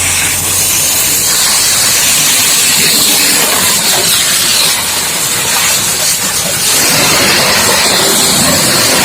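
High-pressure water jet from a booster pump spraying, a loud steady hiss.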